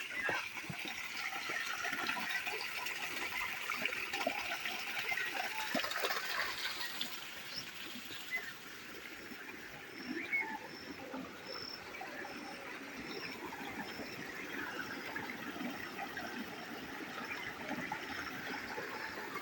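Running water, a steady trickling rush. A faint high chirp repeats about once a second through the middle.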